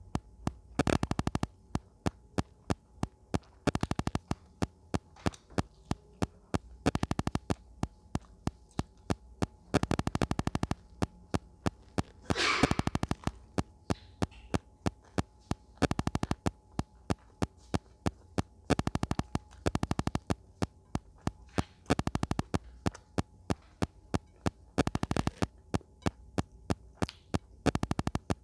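Close-miked eating sounds: wet mouth clicks and chewing in quick runs every second or two, with one louder, longer burst about halfway through.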